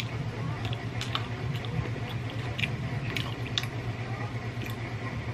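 Close-up eating sounds of roast chicken eaten by hand: scattered wet smacks and chewing clicks from the mouth and fingers, over a steady low hum.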